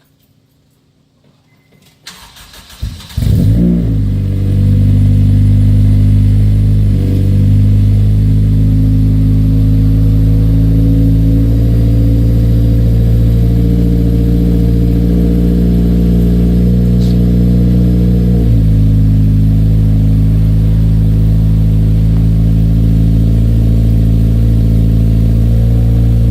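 2002 Acura RSX Type S's 2.0-litre K20 four-cylinder cold-started through a 3-inch header-back exhaust: the starter cranks about two seconds in, the engine catches a second later and settles into a loud, steady cold-start fast idle. The idle eases down a little about two-thirds of the way through.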